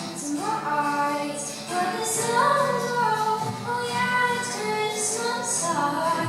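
A song sung by high voices over musical accompaniment, with held notes that glide between pitches.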